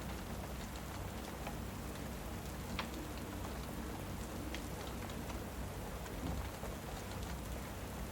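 Steady rain ambience with a fireplace mixed in: an even hiss of rainfall over a low rumble, with a few sharp pops from the fire.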